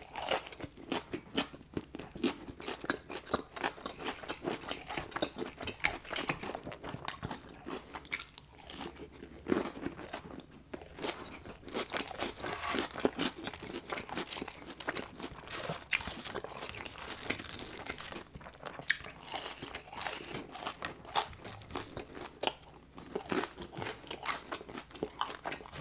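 Close-miked crunching and chewing of crispy fried chicken breading, with many sharp crunches and wet mouth sounds throughout.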